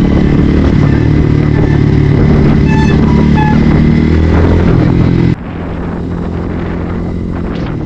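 Bajaj Pulsar NS160's single-cylinder engine running as the motorcycle is ridden, heard from the bike. About five seconds in the sound drops suddenly to a quieter, duller engine note that carries on.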